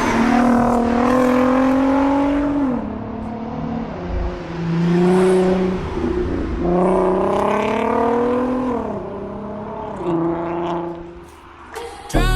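VW Golf R32 Mk5's 3.2-litre VR6 through an EgoX exhaust, revving up twice with a rising pitch and dropping back each time, with a steadier lower note in between. Music cuts in right at the end.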